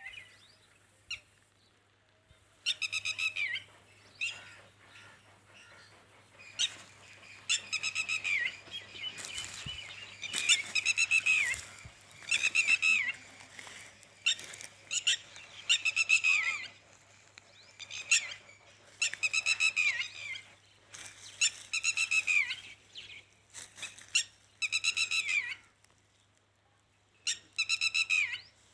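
A bird calling over and over: a dozen or so harsh, buzzy calls, each lasting up to a second or more and sliding down in pitch at the end, with short pauses between them.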